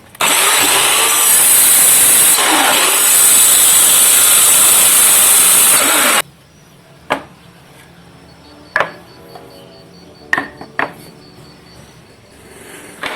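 Power tool cutting pine wood: a loud, even noise for about six seconds that stops abruptly. Then several sharp knocks of wood being handled, over faint background music.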